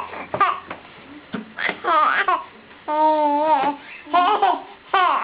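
Baby babbling in short, high-pitched vocal bursts that slide up and down in pitch, with one longer held sound about three seconds in.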